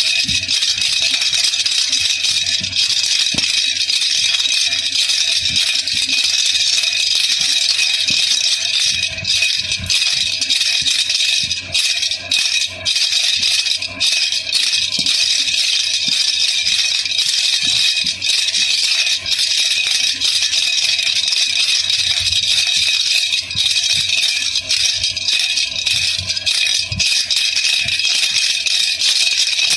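Baby rattle (jhunjhuna) shaken continuously, a dense, steady, high-pitched rattling with a few brief gaps.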